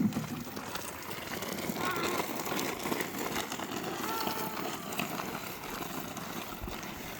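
Faint voices in the background, with a couple of short calls about two and four seconds in, over steady outdoor noise.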